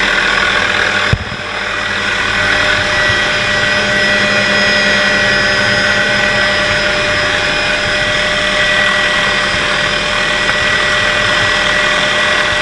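Helicopter running steadily at close range, a constant whine over a dense rush of noise. There is one sharp knock about a second in.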